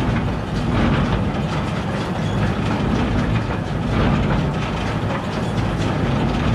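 A 2001 New Holland BB940 large square baler running on the tractor's PTO: a steady mechanical clatter of its drive, flywheel and plunger over the tractor engine, running nice and smooth.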